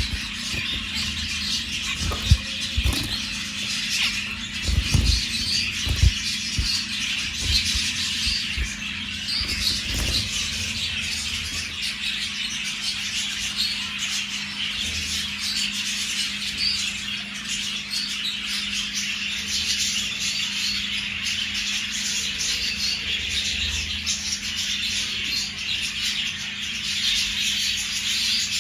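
Zebra finches calling continuously in a dense chatter of short, overlapping calls, with a few low thumps in the first ten seconds and a steady low hum underneath.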